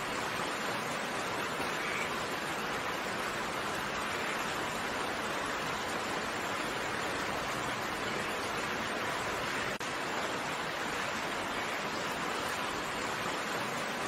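Steady, dense rain hiss with no distinct drops standing out, with a momentary dropout about ten seconds in.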